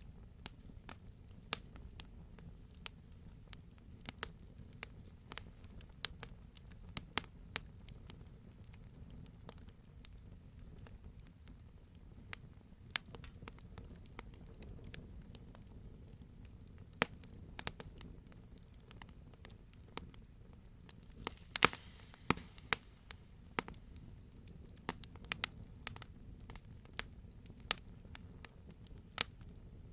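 Wood campfire crackling: irregular sharp pops and snaps over a steady low rumble of the burning fire, with a brief cluster of louder pops about two-thirds of the way through.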